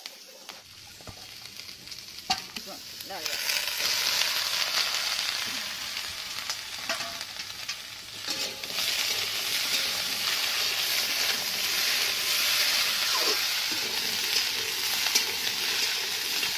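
Potato and brinjal pieces frying in oil in a steel kadhai. The sizzle swells sharply about three seconds in, as the wet brinjal goes into the hot pan, then holds steady, with a metal spatula scraping and clinking against the pan as the vegetables are stirred.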